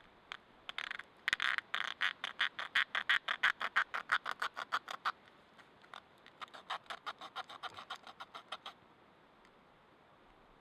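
An animal's rapid chattering call, about eight notes a second, in a long bout that swells and fades, followed by a shorter, fainter bout.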